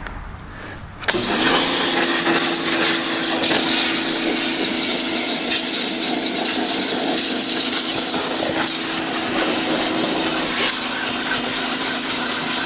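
Sun Joe SPX2598 electric pressure washer switching on about a second in, its motor running with a steady hum under the loud hiss of the water jet spraying.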